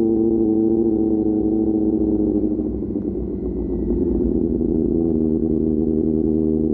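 QJ Motor SRK600's inline-four engine through an SC-Project exhaust, running at steady revs. Its note wavers and eases off briefly around the middle, then holds steady again.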